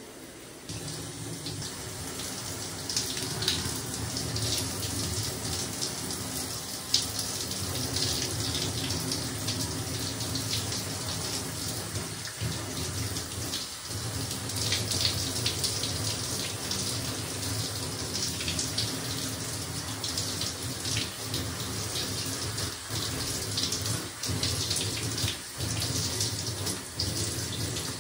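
Running water with irregular splashing. It starts about a second in and goes on without a break.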